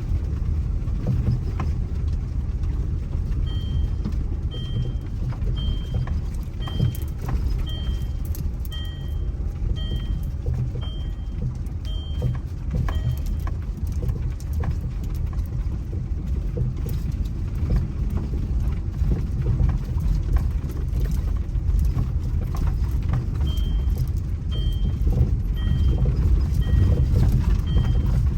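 A bird repeating a short high note about once a second, in two runs, over a steady low rumble.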